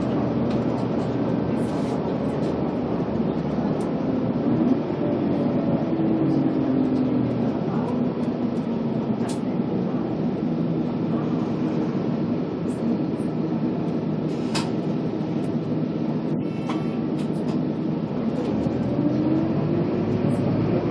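Scania K280UB city bus under way: steady engine and road noise, with the engine note rising and falling a few times as the bus changes speed, and a couple of short clicks about two-thirds of the way through.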